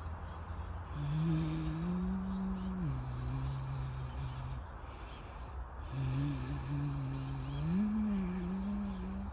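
A person humming a slow tune in long held low notes, stepping up and down in pitch, with a pause in the middle. Small birds chirp over it in many short, high, falling notes, above a steady low rumble.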